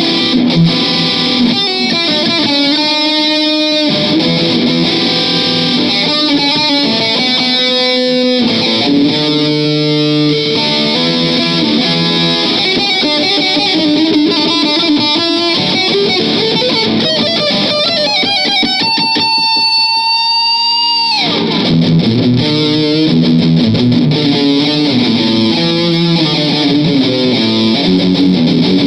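Electric guitar playing riffs and licks: runs of quick single notes, then one long held note about two-thirds of the way through that drops away suddenly, followed by busier playing.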